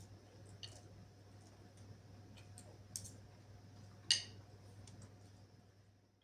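A few light clicks and taps over a steady low hum, with one sharper click about four seconds in; the sound fades out at the very end.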